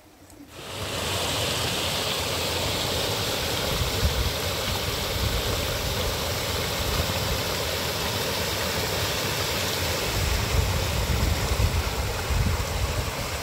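Heavy rain falling: a steady hiss that starts suddenly about half a second in, with a low rumble that grows louder and more uneven near the end.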